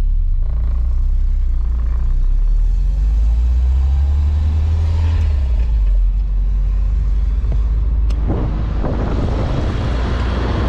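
Nissan KA24DE four-cylinder engine driving a 300ZX at low speed, a steady low drone through a freshly fabricated exhaust that is running quietly. About eight seconds in, loud wind and tyre rush joins the engine.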